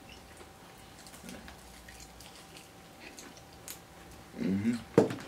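Quiet eating of fried chicken: faint chewing and small mouth clicks, then a short hummed "mm" and one sharp click near the end.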